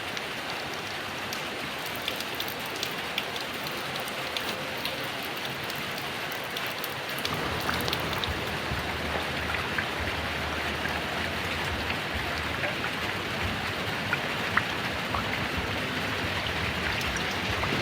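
Heavy rain falling steadily, with scattered sharp drop ticks over a dense patter. About seven seconds in, a low rumble joins and the sound grows slightly fuller.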